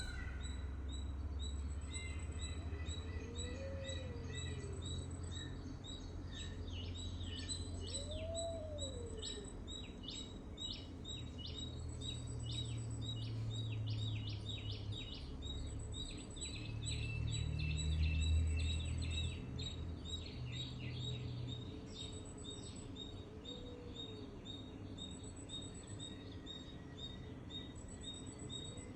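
Several songbirds chirping and calling, with quick runs of short high notes and a few slower, lower rising-and-falling calls, over a steady low rumble that swells briefly past the middle.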